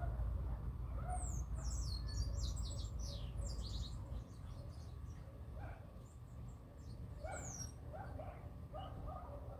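Birds chirping: a quick run of high notes between about one and three and a half seconds in, and a single falling whistle near the end. Shorter, lower calls come in the second half, over a low rumble that drops off about four seconds in.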